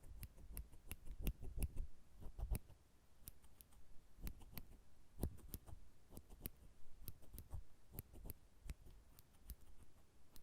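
Nail clippers clicking close to the microphone: a string of sharp, irregular clicks, several a second.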